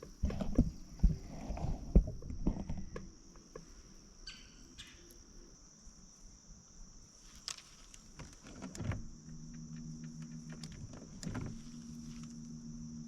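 Scattered knocks and clatter in a small fishing boat over a steady high chirring of insects; about nine seconds in, a steady low motor hum starts and keeps running.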